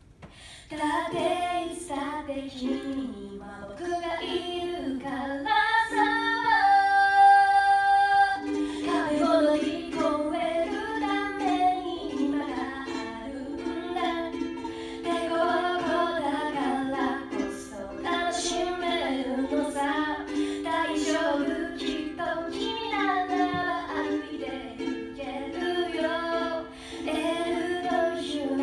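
A woman singing a song to ukulele accompaniment, with steady strummed chords under the voice. About six seconds in she holds one long note for roughly two seconds before the melody moves on.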